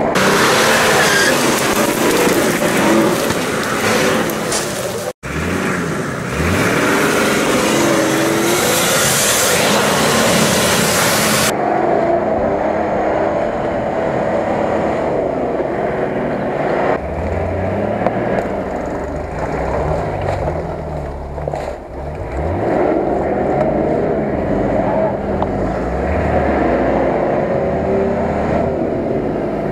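Nissan Patrol 4x4's engine revving up and down as it labours through deep mud. A rushing hiss lasts the first ten seconds or so and stops abruptly. The sound drops out for an instant about five seconds in.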